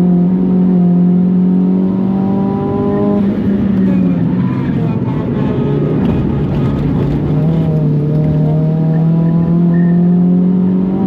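Big-turbo Mitsubishi Colt R's engine pulling hard and slowly climbing in revs under load. About three seconds in, an upshift drops the pitch. A few seconds of rougher, uneven running follow, then the engine climbs steadily through the revs again.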